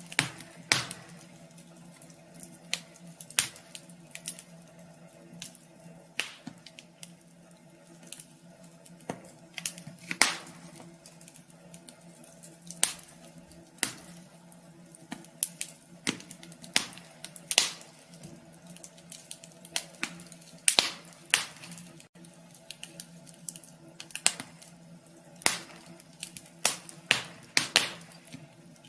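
Wood fire crackling in a wood stove: irregular sharp pops and snaps at uneven intervals over a faint steady hum.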